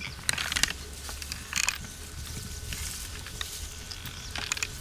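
Scattered rustling and crackling of forest undergrowth, with the loudest snaps about a third of a second and a second and a half in, over a steady low rumble.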